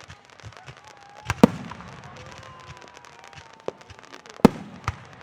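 Aerial fireworks bursting: loud booms about a second and a half in and twice near the end, with a steady crackle of smaller reports between them and a faint long whistle.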